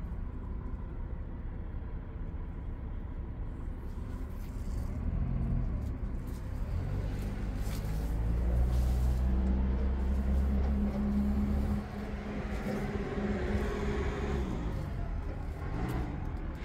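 MAN 32.414 truck's diesel engine running. It speeds up about seven seconds in, holds a higher steady speed for a few seconds, then drops back to a lower speed at about twelve seconds.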